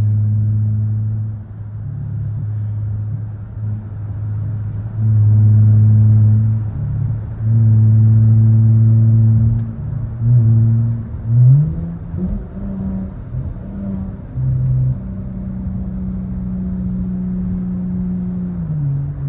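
Car engine and exhaust heard from inside the cabin, droning on a steady note and then pulling hard in several loud surges, with a quick rise in pitch about halfway through and the note settling at a new pitch near the end.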